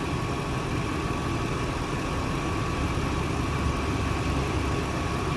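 Truck engine idling steadily with the air conditioning running, a thin steady high tone over the low rumble.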